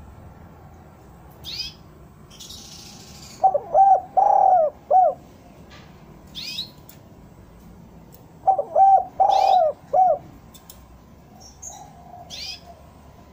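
Spotted dove cooing: two phrases of several short hoots, each with one longer, louder note, about five seconds apart. A smaller bird gives brief high chirps in between.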